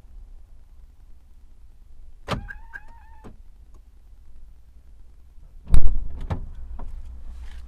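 Sounds inside a BMW E30 wagon before setting off: a click and a short electric motor whine lasting about a second, ending in another click, then a loud thump a few seconds later followed by a steady low rumble.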